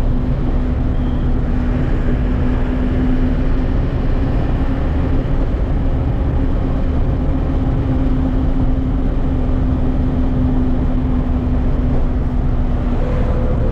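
Truck engine running steadily under way, a continuous low rumble with a steady hum. The engine note changes near the end.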